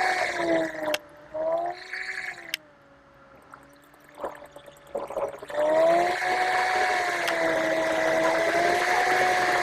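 Car engine droning, its note rising and falling slightly with the revs. It drops away to a low level about a second in, then comes back and holds steady for the second half.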